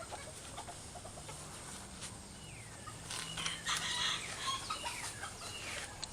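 Birds calling: a cluster of short chirps and calls, loudest from about three to five seconds in, over a faint steady low hum.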